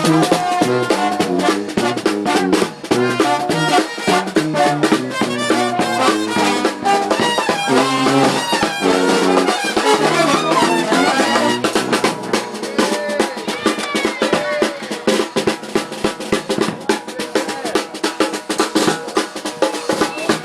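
Brass band playing: trumpets and other horns over snare and bass drum. About halfway through the horns drop back, leaving mostly drums.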